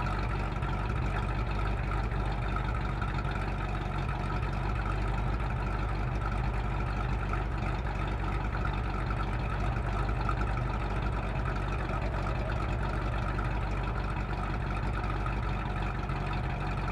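383 stroker small-block Chevy V8 with a hydraulic roller camshaft idling steadily, its exhaust note running at an even, unchanging pace.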